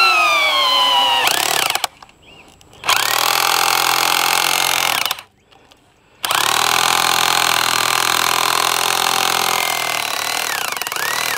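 A handheld power tool run in three bursts. At first a motor whine drops in pitch, turns rough and cuts off about two seconds in. It then runs again for about two seconds and for about five seconds, with short pauses between.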